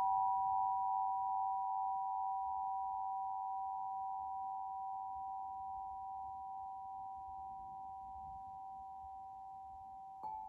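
Tuning forks struck and left ringing together: pure, steady tones that slowly fade, with a gentle pulsing beat in one of them. Near the end they are struck again with a click, and fresh tones start.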